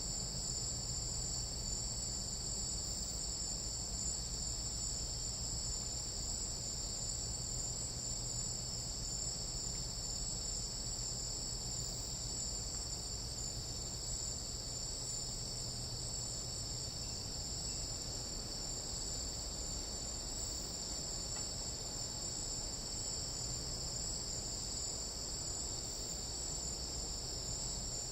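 A dense chorus of night insects, crickets and katydids, trilling steadily at a high pitch without a break.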